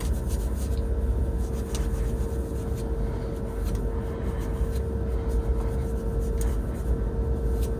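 Truck engine running with a steady low rumble and a constant hum, with a few light clicks.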